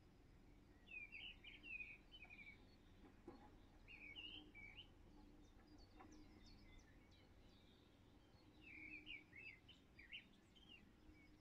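Faint songbird singing in the open: three bouts of quick warbling phrases, with thinner high chirps in between.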